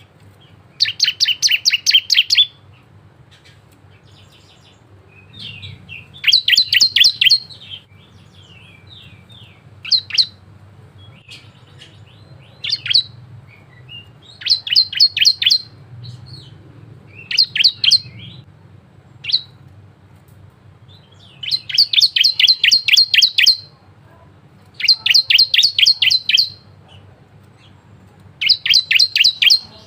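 A ciblek (prinia) singing in repeated bursts of rapid, high chirping notes, each burst one to two seconds long, broken by short pauses and the odd single call. It is a lively 'gacor' song of the kind played to set other ciblek singing.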